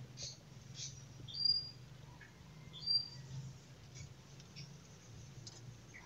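Faint, short, high-pitched chirps of small birds. The two clearest come about one and a half seconds and three seconds in, with scattered fainter calls between them.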